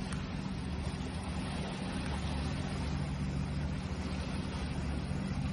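Sea waves: a steady low rumble with a hiss over it, no single wave standing out.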